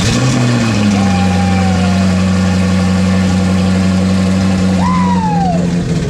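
A single-turbo Ford Mustang S550 engine catches on its first start after the turbo install. It flares briefly, then settles into a steady idle.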